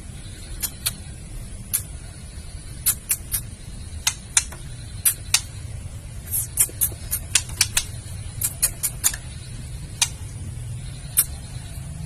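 Female white-rumped shama giving its kretekan, sharp dry clicking calls in irregular runs that are thickest in the middle, over a low steady rumble. It is a female call used to rouse a male shama to sing and show mating drive.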